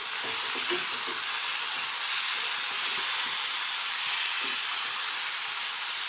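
Chicken pieces and ground spices frying in mustard oil in a nonstick pan: a steady sizzle as a spatula stirs them.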